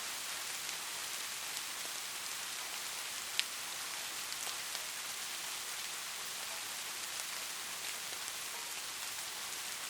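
Steady rain falling as a dense, even hiss, with scattered individual drops ticking through it and one sharper drop about a third of the way in.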